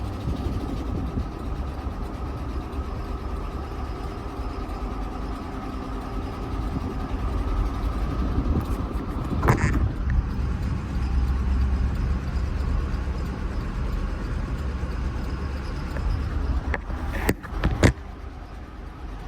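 GMC Yukon XL's 5.3-litre V8 running under way with a steady low rumble, an engine with a knocking connecting rod. Sharp cracks sound once about halfway through and two or three times near the end, the last the loudest.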